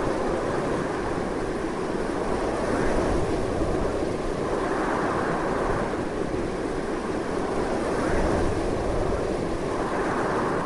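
Strong wind blowing steadily, a continuous rushing noise that swells and eases a little every few seconds, with a low rumble beneath.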